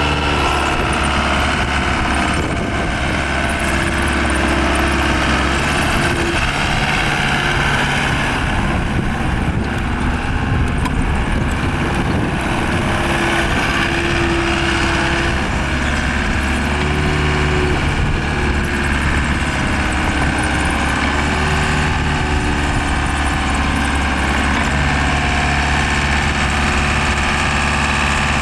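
Diesel engine of a 2012 Volvo MCT125C skid steer running steadily at a loud, even level.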